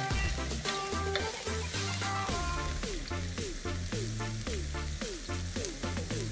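Meat and shrimp sizzling on a round tabletop grill plate, under background music with a steady bass beat.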